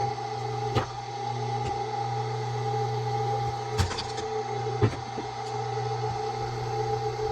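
Steady machine-like hum holding a few fixed pitches, with a few short sharp knocks over it, about a second in and twice near the middle.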